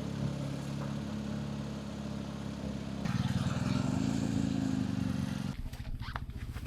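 BMW GS adventure motorcycle's twin-cylinder engine running under way. The engine gets louder and its note rises about three seconds in, as the bike accelerates, and the sound changes abruptly near the end.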